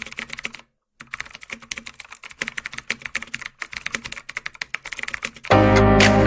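Rapid, irregular computer-keyboard typing clicks, with a brief silent break about a second in. Music starts near the end.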